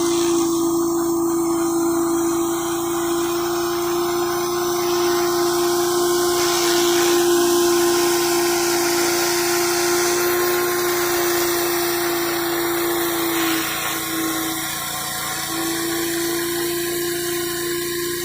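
Engine-driven pressure washer running steadily while its high-pressure water jet hisses against concrete. The engine's steady note falters briefly about two-thirds of the way through, then settles again.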